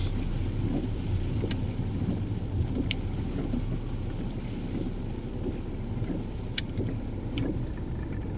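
Car driving, heard from inside the cabin: a steady low engine and road rumble, with a few sharp ticks scattered irregularly through it.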